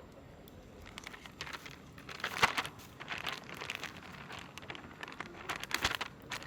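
Rustling, crinkling handling noises with scattered light clicks, and two sharp clicks, one about two and a half seconds in and one near the end.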